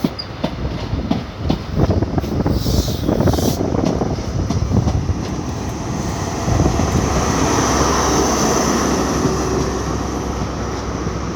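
InterCity 125 (HST) train pulling out, its wheels clattering over rail joints, with a steadier running sound building about six and a half seconds in.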